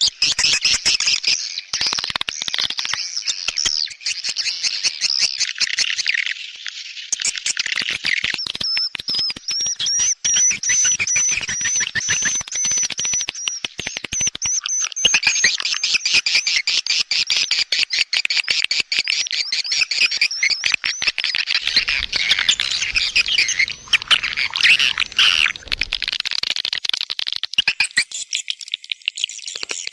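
Swiftlet call recording of the kind played to lure edible-nest swiftlets: dense, unbroken high twittering and chirping, with a run of rapid high trills from about 8 to 14 seconds in.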